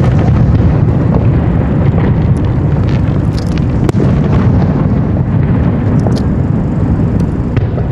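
Aerial fireworks bursting in a dense barrage: a continuous deep booming rumble with sharp cracks and crackles scattered through it.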